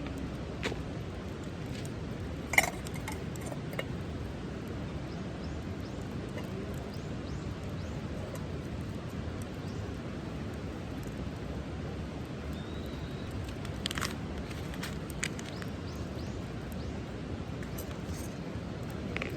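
Wood campfire burning with a steady low rush and scattered crackles; a sharp pop about two and a half seconds in, and a few more near fourteen seconds.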